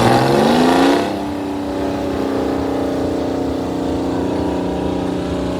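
Two-stroke Detroit Diesel engine of a 1949 Euclid FD hauler revving up, its pitch rising for about a second, then running steadily at the higher speed.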